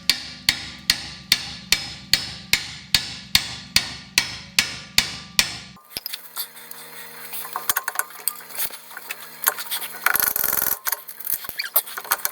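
A hammer striking steadily, about two and a half blows a second, to drive the R50 MINI's new driveshaft home until it seats. The blows stop suddenly a little before halfway. After that come quieter, irregular clicks and rattles of metal parts being handled.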